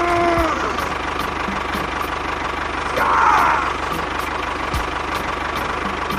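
Small engine of a home-built mini tractor running steadily at idle with a fast, even pulsing, just after being started. A short louder rasp comes about three seconds in.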